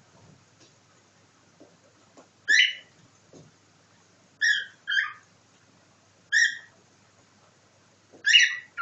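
Pet cockatiel giving five short, loud calls, spaced about two seconds apart with one quick pair in the middle.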